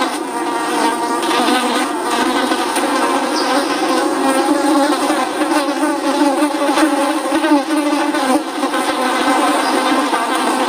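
Many flies buzzing at once: a loud, steady drone of overlapping wingbeat buzzes.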